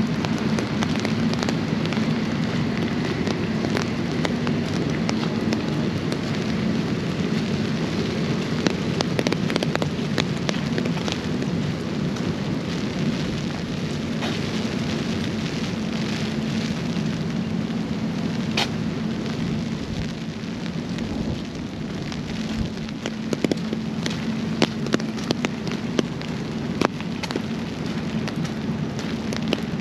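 Steady rain falling, with many scattered sharp taps of drops landing close by and a few louder taps in the second half.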